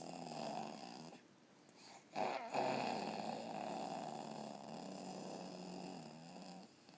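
A person making silly drawn-out vocal noises with their throat: one long noise ends about a second in, then after a short pause a second, louder one is held for about four and a half seconds.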